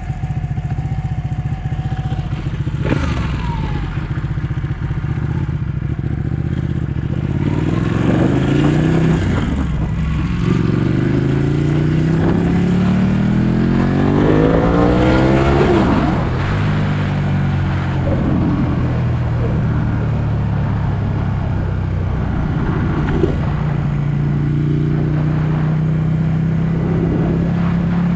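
Ducati 1199 S Panigale's L-twin engine under way, pulling up through the revs in a few rising sweeps, easing off just past halfway, then running at a steady cruise.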